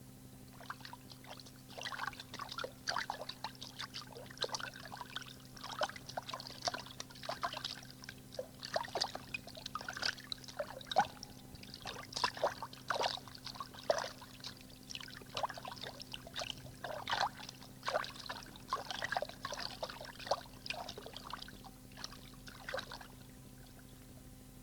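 Water sound effect: irregular small splashes and trickles, several a second, stopping about a second before the end, over a steady low hum from the tape.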